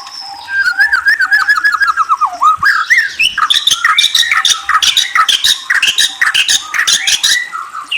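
A murai songbird singing: first a quick run of repeated whistled notes, then a falling whistle, then from about three seconds in a dense, varied stretch of loud trills, whistles and sharp chips that stops shortly before the end.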